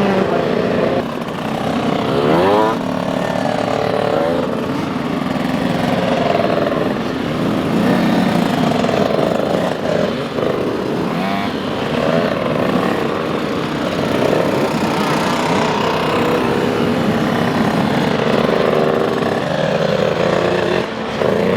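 Several small two-stroke motocross bike engines running and revving, their pitch rising and falling as the 85cc bikes ride to the start line.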